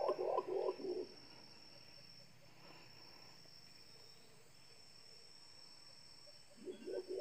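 Steady high-pitched drone of crickets or similar forest insects. A louder, low, rapidly pulsing sound stops about a second in and starts again near the end.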